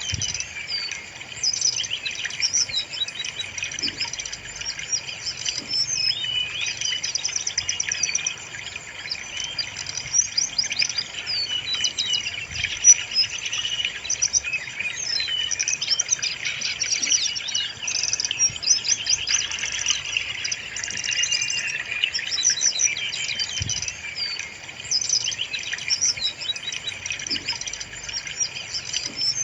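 Brown-chested jungle flycatcher (sikatan rimba dada coklat) song: a dense run of rapid high chirps, trills and whistled phrases, overlapping with hardly a break, played as a lure recording to set caged birds singing.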